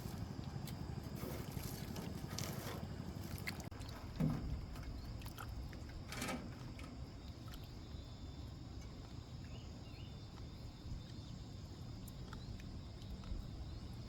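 Water around a small boat: a few splashes and light knocks over a steady low rumble.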